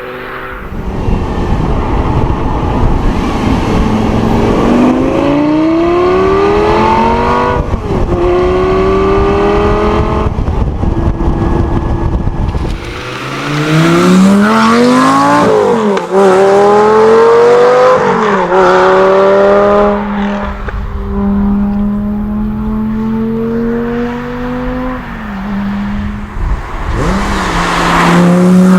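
Lamborghini Gallardo Spyder's V10 engine accelerating hard through the gears: the engine note climbs steadily, then drops back at each upshift, several times over. A heavy low rumble sits under the first half.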